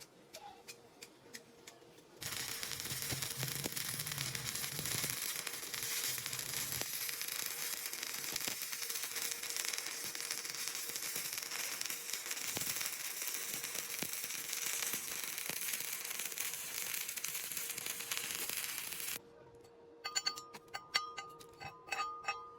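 Welding arc crackling steadily for about seventeen seconds, starting abruptly about two seconds in and cutting off suddenly. Scattered light clicks come before it, and a few sharp metallic clicks with brief ringing follow near the end.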